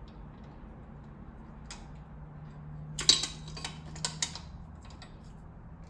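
A short cluster of sharp metallic clicks and clinks about three seconds in, with two more about a second later: hand tools working on the rocker arm bolts of a 3.8L V6 engine. A low steady hum runs underneath.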